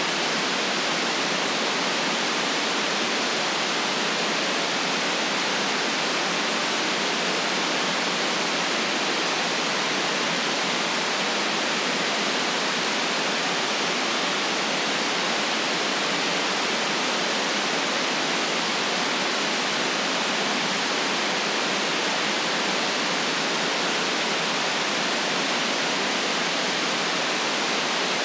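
Steady white noise: an even, unchanging hiss with no deep rumble under it and no change in level.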